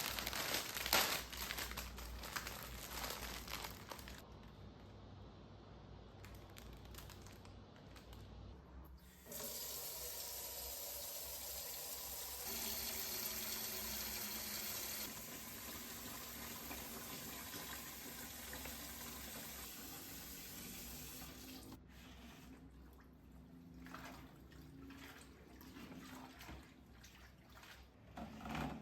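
Tap water running steadily for about twelve seconds in the middle, preceded by rustling and handling noises and followed by scattered clicks and knocks.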